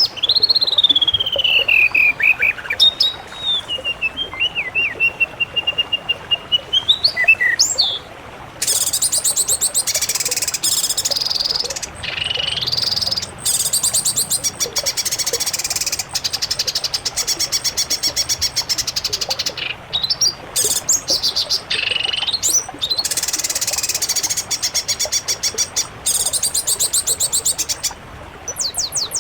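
Songbird song: clear whistled notes sliding up and down for the first few seconds, then long, very rapid trills lasting a few seconds each, separated by short breaks.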